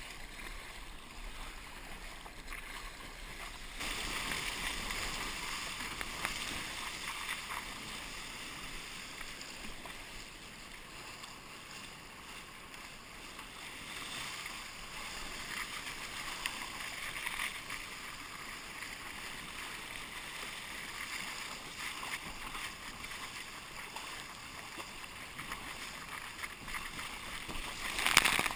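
Water swishing and splashing around a kayak as it is paddled, swelling and fading every few seconds, with one brief louder splash near the end.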